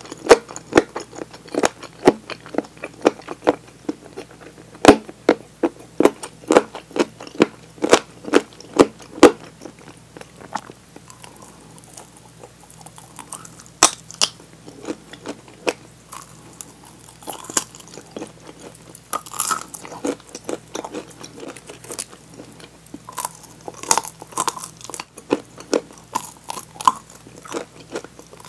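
Close-miked crunching and chewing of crispy fried chicken drumettes. Sharp crunches come about twice a second for the first ten seconds, then give way to softer chewing with only the odd crunch.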